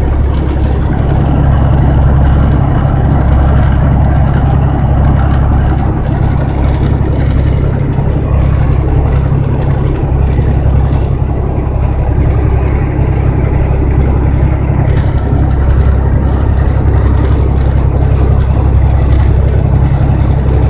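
Steady low drone of a truck's engine and road noise heard from inside the cab while driving, with no change in pace.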